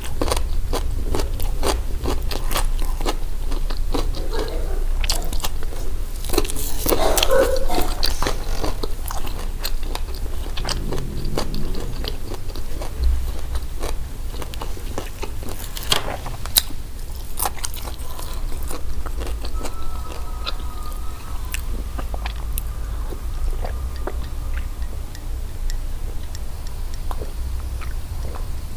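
Close chewing and biting of crispy hawawshi, baked flatbread stuffed with spiced minced meat, with a steady run of crisp crunches, loudest and densest about seven seconds in.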